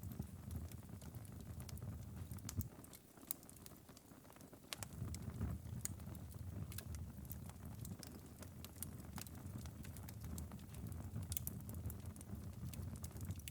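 Wood-burning fireplace ember bed, burned down to glowing coals after hours of burning, crackling with scattered sharp pops and ticks over a low rumble. The rumble dips for about two seconds roughly three seconds in.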